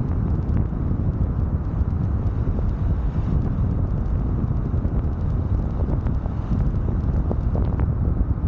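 Wind buffeting the microphone of a camera riding on the outside of a moving car, a steady low rumble with a few faint ticks.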